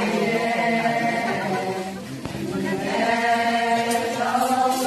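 Group of voices chanting a ponung song together, holding long notes. The singing dips briefly about two seconds in, then resumes.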